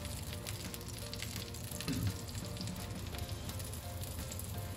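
Tofu patties frying in hot oil in a frying pan: a steady sizzle with fine crackling.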